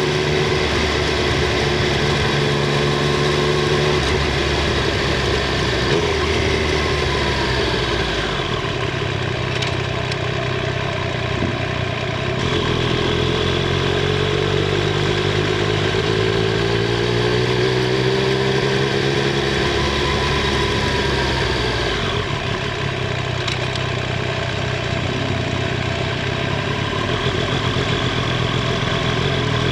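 Triumph Street Triple 765 R's inline three-cylinder engine and exhaust running while riding, heard from the microphone under the rear seat. Engine speed holds steady for stretches and changes several times, rising around the middle and again at the end.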